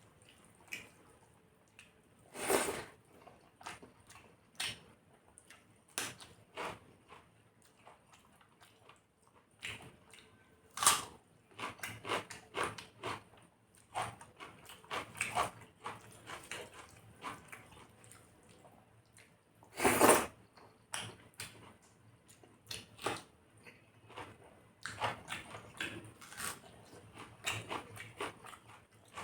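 A person eating chicken curry with rice: irregular wet mouth smacks and chewing, with a few louder smacks, one about 2.5 s in and one about 20 s in.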